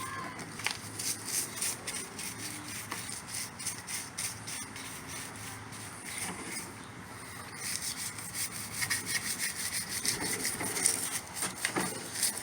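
Rapid back-and-forth scrubbing strokes on a vacuum pump's dirty casing, loosening caked-on grime. The strokes pause briefly about halfway through, then resume harder.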